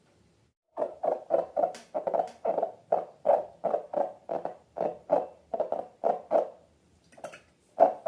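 Slime being squeezed and kneaded by hand: a quick run of wet squishes, about three a second, starting about a second in and breaking into a few separate, louder squelches near the end.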